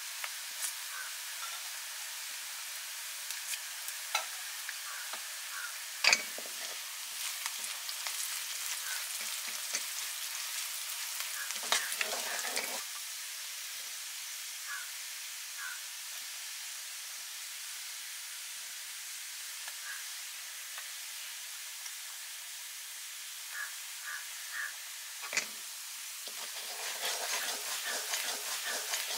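Chicken frying in hot oil in a pan, sizzling steadily, with occasional knocks and scrapes of a utensil against the pan as it is stirred, the sharpest knock about six seconds in. Near the end the sizzle grows louder and more crackly.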